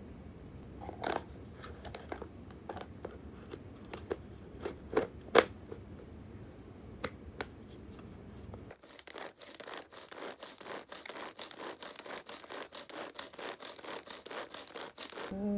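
Kitchen food-preparation handling sounds: scattered light taps and clicks. About two-thirds of the way in, an abrupt change to a dense run of rapid, crisp crackling clicks.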